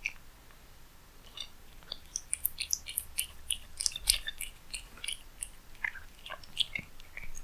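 A cat eating, with irregular quick clicks of chewing close to the microphone that come thick and fast from about two seconds in.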